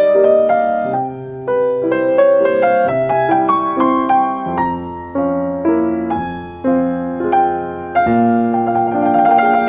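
Solo piano music: a slow melody of single notes and chords, each note struck and left to ring.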